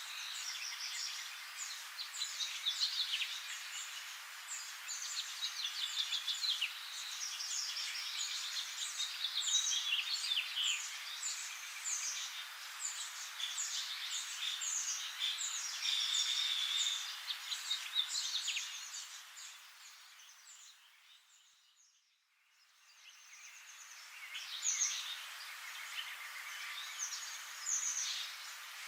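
Dense chorus of many small birds chirping and twittering, with no low end to it. It fades away to silence about two-thirds of the way through, then fades back in.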